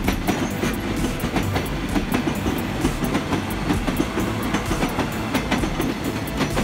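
Electric multiple-unit commuter train passing close by, its steel wheels clacking over rail joints again and again over a steady rolling rumble.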